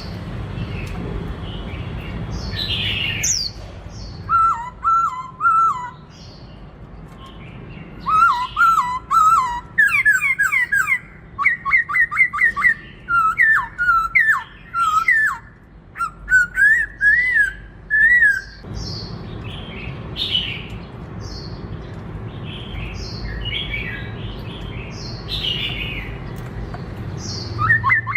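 White-cheeked laughingthrush singing: loud, rapidly repeated whistled phrases of sliding notes, with shorter, harsher higher calls in between. The song goes quiet for a few seconds past the middle, then starts again near the end.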